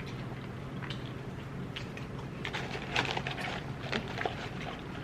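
Close-up chewing of crunchy food, with irregular crackly crunches, a cluster of them in the middle. A steady low hum runs underneath.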